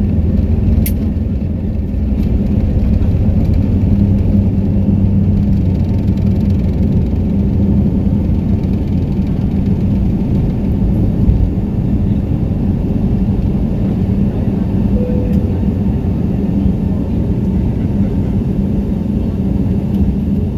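Airliner cabin noise heard from a passenger seat: a loud, steady rumble of the engines and airflow with a low, even hum, as during the takeoff run and climb.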